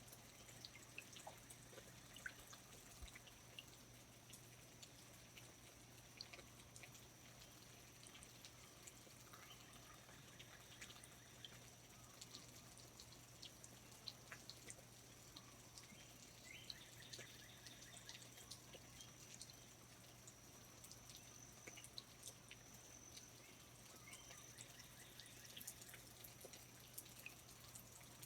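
Faint rainforest ambience: water dripping in scattered single drops, over a steady high-pitched tone. A few short trilling calls come and go.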